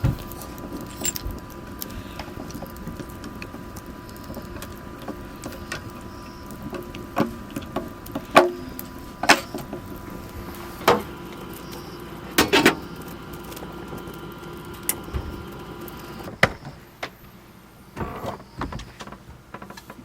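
A steady machine hum with a few fixed tones, with scattered clicks, knocks and clatter over it; the hum stops about sixteen seconds in.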